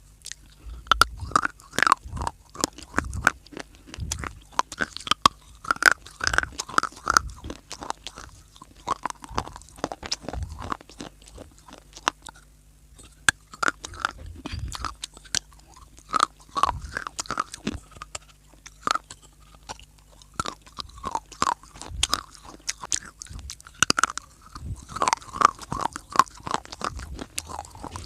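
A person biting and chewing crunchy pieces of dry clay up close: a dense run of sharp crunches and cracks, with a brief pause about halfway through.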